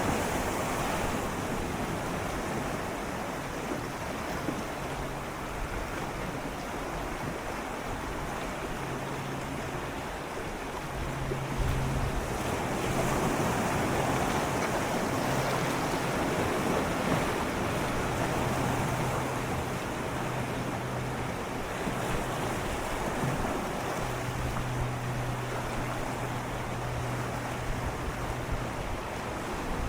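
Gentle sea waves swirling and lapping against shoreline rocks in a continuous wash, swelling a little louder about twelve seconds in. A faint low hum comes and goes underneath.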